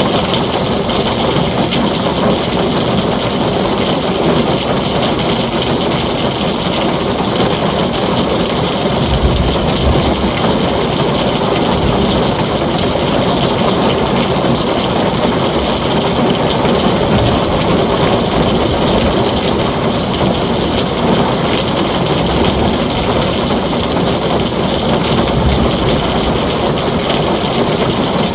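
Heavy rain pounding steadily on a tin roof, a dense even hiss. Two short low rumbles of thunder come through, about nine seconds in and again near the end.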